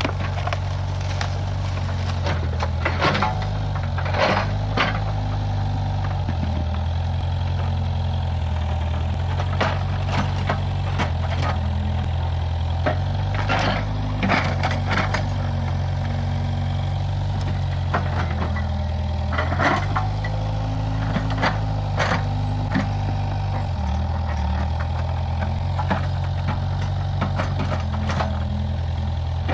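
Case 580G backhoe loader's diesel engine running under changing load, its low pitch stepping up and down several times. Over it come scattered sharp cracks and knocks of wood and brush being broken.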